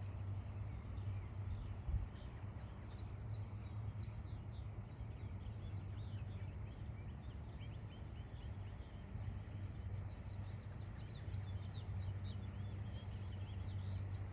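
Small birds chirping and twittering in short, quick notes, busier toward the end, over a steady low hum. A single low thump about two seconds in.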